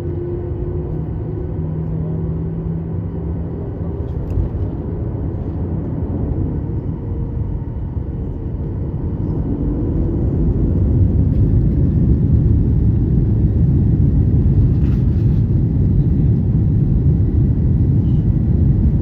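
Airplane engines running with a steady low rumble that grows louder about ten seconds in and then holds.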